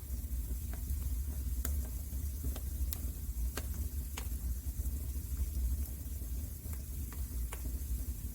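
Wood fire crackling in a fireplace: irregular sharp pops and snaps over a steady low rumble and hiss of burning.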